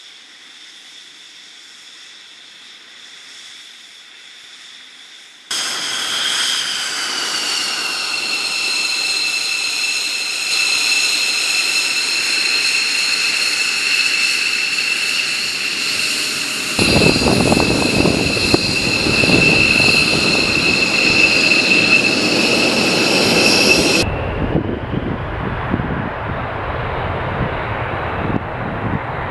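Jet aircraft engines, cut together from several shots. A quieter steady whine comes first. About five seconds in, a loud high turbine whine starts, gliding down in pitch and then holding steady. A heavy rumble joins it partway through, and near the end it gives way to a rougher, noisier run.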